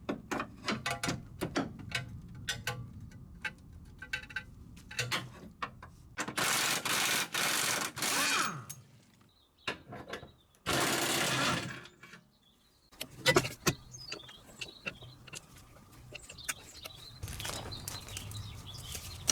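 Workshop tool work on the car's front subframe and its bolts: scattered metallic clicks and clinks, with two longer bursts of steady hissing tool noise, the first about six seconds in and lasting over two seconds, the second shorter, near eleven seconds.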